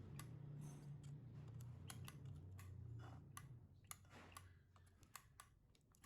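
Faint, irregular small clicks and light taps over a low hum that fades out about three and a half seconds in.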